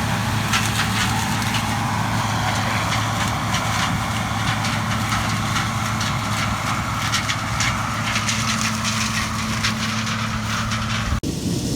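Gleaner combine running steadily while harvesting corn with a 4-row head: an even engine hum with scattered crackles and ticks over it. It breaks off abruptly near the end into a different rumble.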